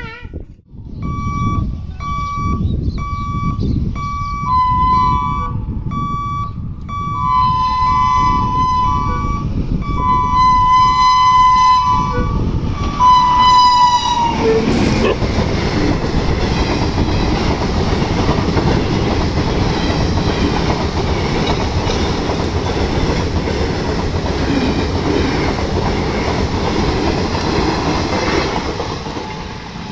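A level-crossing warning buzzer beeps about once a second while an approaching Indian Railways electric locomotive sounds its horn in several long blasts. From about halfway through, the locomotive and its coaches pass at speed, loud and steady.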